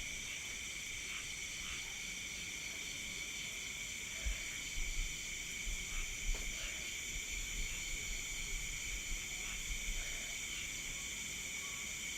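Steady chorus of night insects, several constant high-pitched trills layered together, with a few low thumps in the middle.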